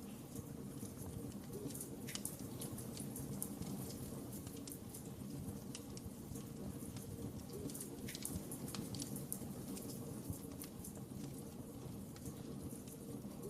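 Wood fire in a fireplace crackling, with irregular sharp snaps over a steady low rumble of the flames.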